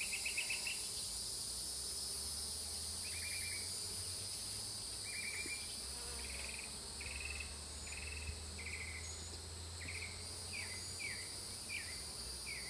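Outdoor summer insect chorus: a steady high-pitched drone, with a series of short repeated chirps, about one every half second to a second, that turn into short down-slurred notes in the second half.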